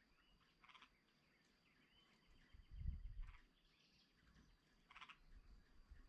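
Faint birdsong: three short chirps roughly two seconds apart and a thin trill, over a steady high-pitched tone. A brief low rumble comes about three seconds in.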